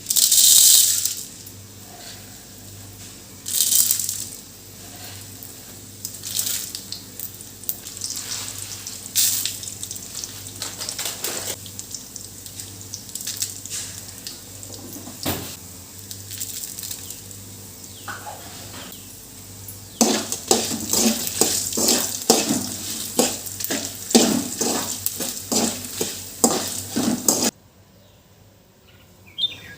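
Kitchen work sounds: short bursts of rushing water with dishes, pots and utensils knocking and clinking, and a busy stretch of rapid clattering near the end that cuts off suddenly.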